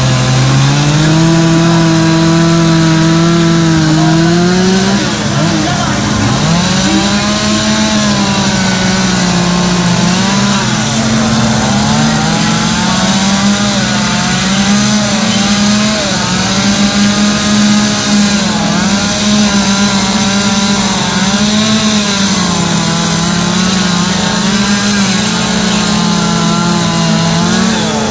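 Several chainsaws running at once, their engines rising and falling in pitch as they cut into wood.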